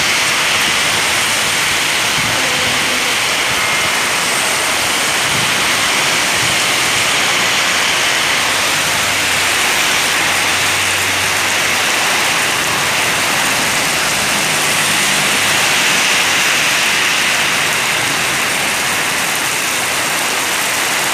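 Heavy rain pouring down in a loud, steady hiss, with the faint low hum of passing road traffic beneath it.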